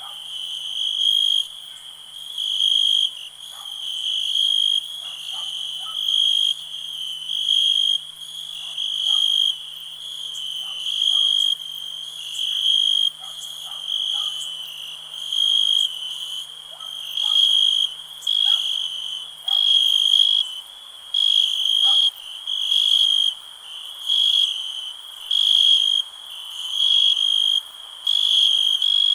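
Crickets chirping in a steady high-pitched trill that swells louder about every second and a half.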